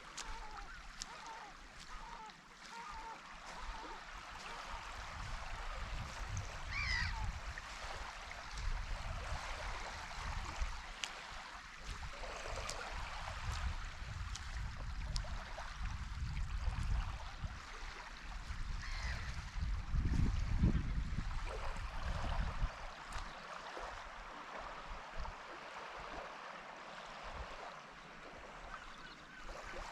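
Seaside ambience: a steady wash of calm sea water, with wind rumbling on the microphone that swells strongest about twenty seconds in. Two short, high bird calls come through, one about seven seconds in and one near nineteen seconds.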